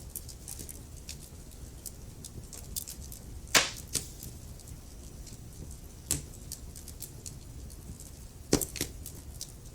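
Wood fire burning in a fireplace: a low steady rumble of flames with scattered small crackles, and two loud pops, one about a third of the way in and one near the end.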